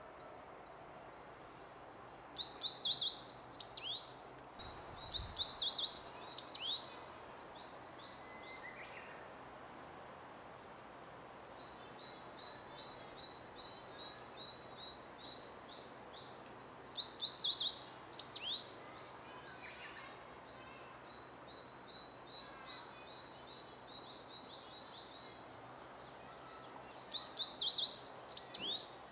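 Wild songbirds singing: four loud, quick, complex song phrases of about a second and a half each, roughly ten seconds apart, with a fainter bird repeating a quick series of high notes in between.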